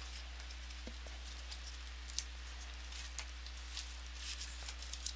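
Faint scattered clicks and soft rustling of a trading-card box and its packs being handled and opened, over a steady low hum.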